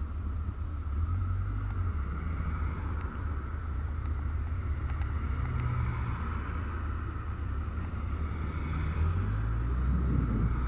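Yamaha Diversion 900's four-cylinder engine running while the motorcycle is ridden, its note shifting up and down a few times, with some wind noise on the microphone.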